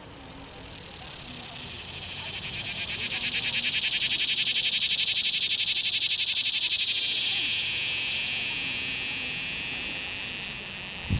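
Male cicada singing its calling song: a long, high, fuzzy buzz that swells over the first few seconds, pulses very rapidly at its loudest, then slowly fades.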